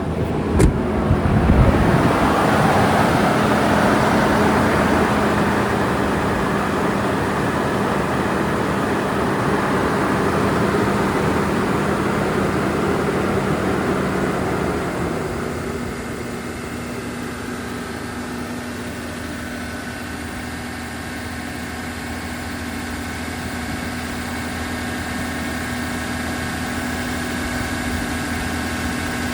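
1998 Toyota 4Runner engine on a cold start. A few sharp clicks come right at the start, then the engine idles steadily. It runs louder at first, then quiets and changes tone slightly about halfway through.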